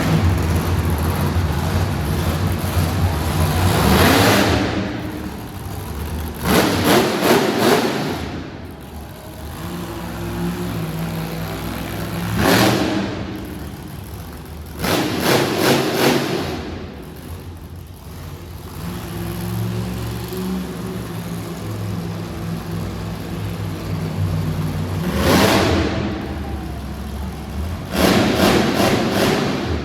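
Mud truck engine running and revving hard in repeated bursts, about six times, dropping back to a lower running note in between.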